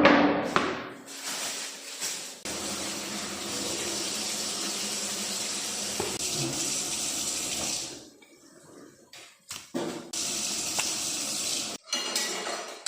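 Water running from a tap into a sink in two spells, a few seconds each, starting and stopping abruptly, after a knock at the start.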